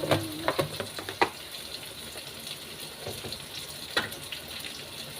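Garlic and onion sautéing in hot oil in a pan: a steady sizzle, with sharp clicks of a spatula against the pan, several in the first second and one about four seconds in.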